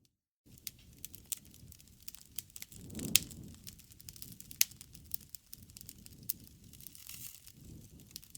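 Wood campfire crackling, with irregular sharp pops over a soft low rush of flame; it starts after a moment of silence, and the loudest pops come about three seconds in and again a second and a half later.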